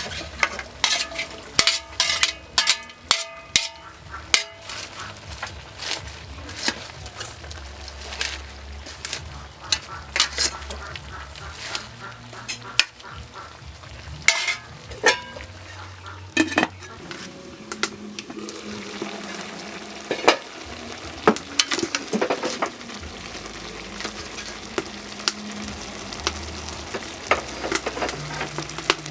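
Food sizzling in a hot pan while a spatula stirs it, clicking and scraping against the pan; the strikes come thick and fast at first and thin out after about halfway.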